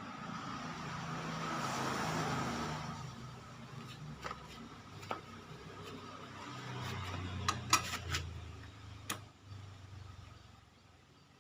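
Motor vehicle engine running, swelling louder about two seconds in and then easing off, with a low hum. Several sharp clicks and knocks come in the second half.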